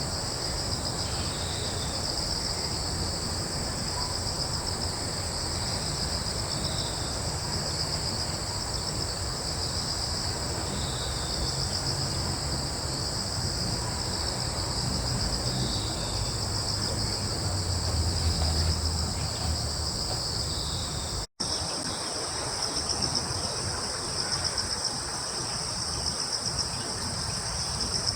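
Steady night chorus of crickets trilling in two high bands, with occasional short chirps and a low rumble underneath. The sound drops out for an instant about two-thirds of the way through, then the chorus carries on.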